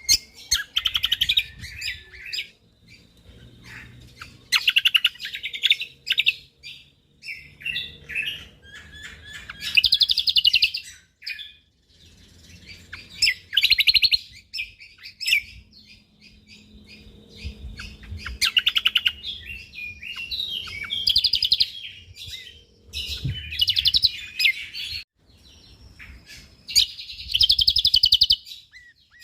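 Cucak kombok (kecial kombok) singing: dense bursts of rapid, high, trilling chatter, one every two to four seconds.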